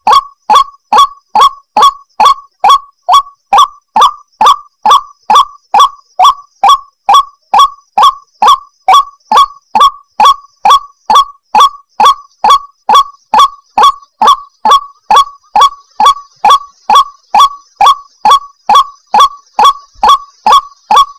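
White-breasted waterhen (ruak-ruak) calling in a fast, even series of short, sharp notes, about two and a half a second, with no break.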